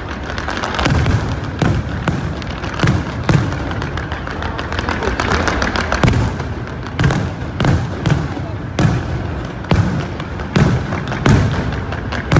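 Fireworks bursting in quick succession, a boom roughly every second, over a steady background wash.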